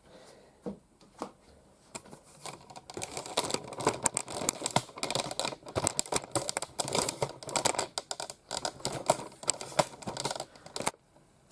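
Hard plastic being handled: a dense run of small clicks, taps and rustles that starts about two seconds in and stops shortly before the end, with a few single clicks before it.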